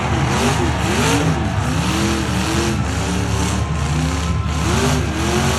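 Several demolition derby trucks' engines revving up and down over one another, over a steady low rumble.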